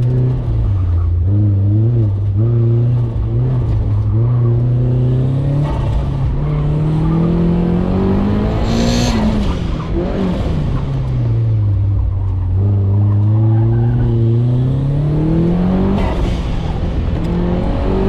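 Car engine on an autocross run, revving up and easing off repeatedly as it is driven hard through the course, with a brief tyre squeal or hiss about halfway through.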